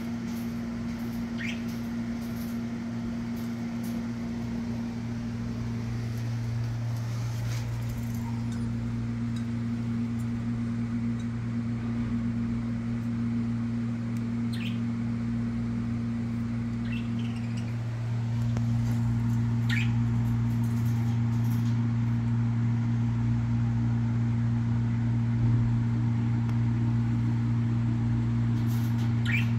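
A steady low hum that gets a little louder about two-thirds of the way through, with a few short, quick budgerigar chirps scattered over it.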